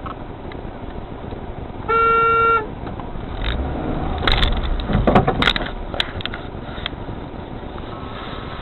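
A car horn blares once for about half a second. About a second later comes a cluster of sharp bangs and crunches over a low rumble, lasting around three seconds: a car collision heard from a dash camera, with steady road noise throughout.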